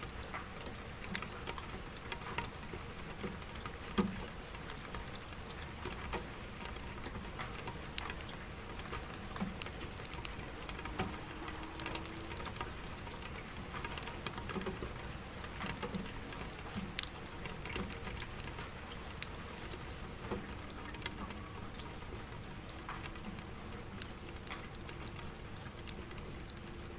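Steady rain, with individual drops landing as irregular sharp ticks and pats over a constant hiss.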